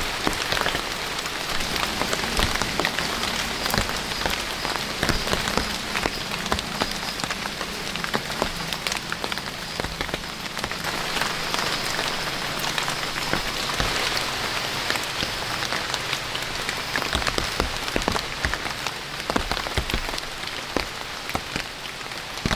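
Steady rain, with a dense patter of individual drops striking close by.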